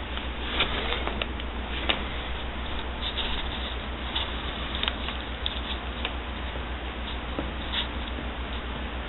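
Light, irregular taps and rattles as a window blind's draw string is swatted by a cat's tail, about a dozen over several seconds, over a steady low hum and hiss.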